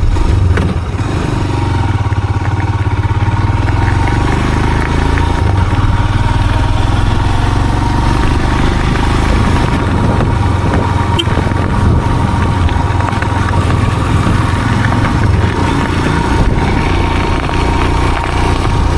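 A motor vehicle running steadily on the move: a constant engine and road drone with a thin, steady whine running through it.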